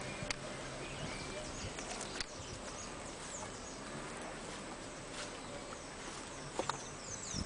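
Outdoor ambience of birds chirping: several short, high, descending calls over a steady background hiss, with a few faint clicks.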